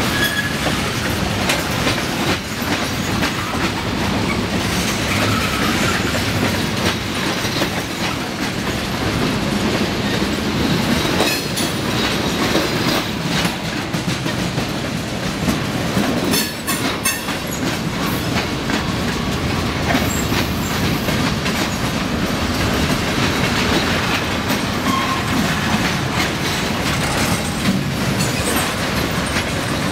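Freight train cars (tank cars, a lumber car and covered hoppers) rolling steadily past, their steel wheels clattering over the rail joints. Sharper clicks cluster around the middle.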